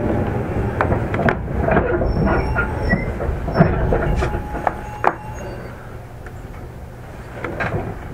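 A JR East 205-3100 series electric train heard from inside its motor car, running noise with sharp clicks and knocks from the wheels over the track. The rumble dies away about five seconds in as the train slows, with a light wheel squeal.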